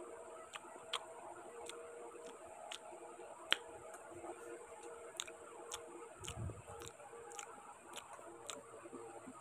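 Faint chewing with sharp mouth clicks about every half second while eating rice and greens by hand, over the steady hum of an electric fan. One low thump about six seconds in.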